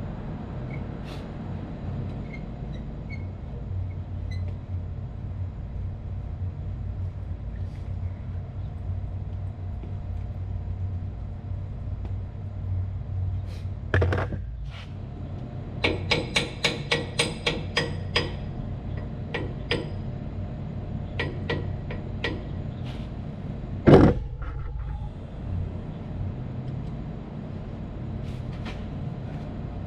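A steady low machinery hum with hand work knocking over it: a single knock, then a quick run of about ten sharp taps, a few scattered clicks, and one loud bang about 24 seconds in.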